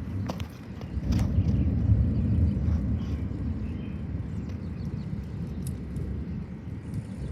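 Thunder rumbling low from an approaching storm, swelling about a second in and then slowly easing off, with a few faint clicks near the start.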